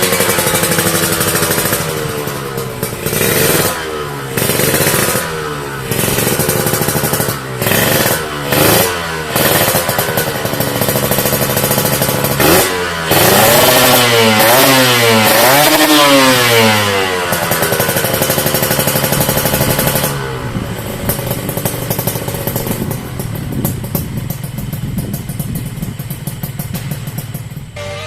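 Kawasaki Ninja R two-stroke single-cylinder engine breathing through an RS1 Corse Project aftermarket exhaust, revved in repeated throttle blips with the pitch climbing and falling back. About two-thirds of the way in it drops to a steadier, rapid crackling idle.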